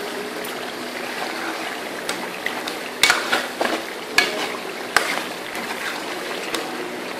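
Mutton curry sizzling as it fries in its masala in a metal karahi, stirred with a metal ladle that clinks and scrapes against the pan several times, most of them between three and five seconds in.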